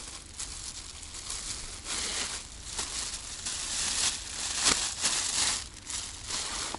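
Irregular rustling and crinkling, like crumpled material being handled or brushed, in a string of uneven bursts; the sharpest comes a little past the middle.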